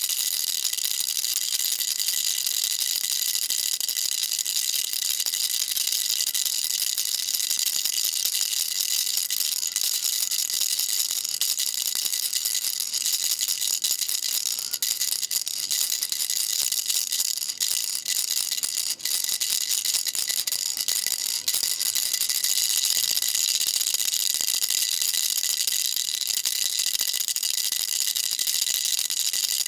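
Baby rattle shaken without pause, a dense, steady high-pitched rattling. There are a few brief breaks in it a little past the middle.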